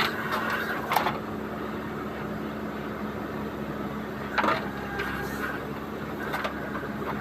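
Diesel engine of a JCB 3DX backhoe loader running steadily, with sharp metallic knocks at the start, about a second in and again around four and a half seconds in.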